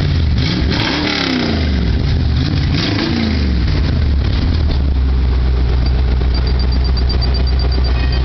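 Ford 302 (5.0 L) V8 engine in a Ford Ranger revved twice, each rev climbing and falling back, then settling into a steady idle.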